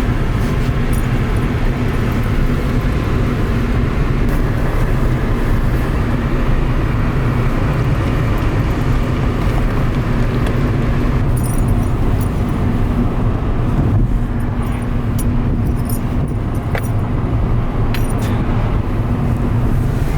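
Steady road and engine rumble inside a moving car's cabin, with a low steady hum underneath.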